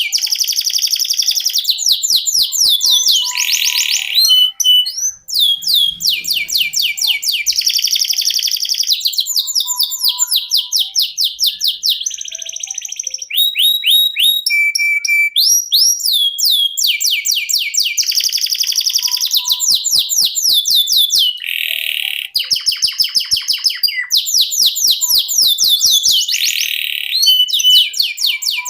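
Domestic canary singing a continuous rolling song: long runs of fast, high-pitched repeated trill notes that change from one phrase to the next, with only short breaks between phrases.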